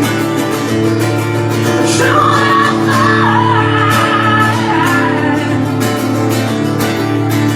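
Live rock band playing a song: strummed acoustic guitar chords over steady low bass notes, with a wavering melody line rising above them from about two to five seconds in.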